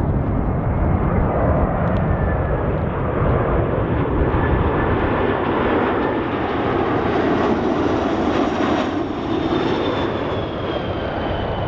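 Four-engined Airbus A340 jet airliner flying past on its landing approach. Its engine roar is steady, with a high whine that slowly falls in pitch in the second half as the aircraft passes.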